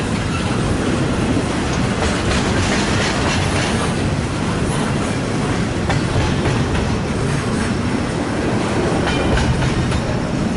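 A freight train's cars rolling past at speed, wheels clicking steadily over the rail joints, with a loud, even rumble of steel wheels on the rails.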